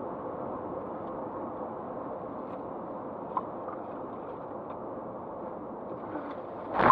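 Steady, muffled car running noise of engine and road, as picked up by a dashcam microphone. A sudden loud noise breaks in right at the very end.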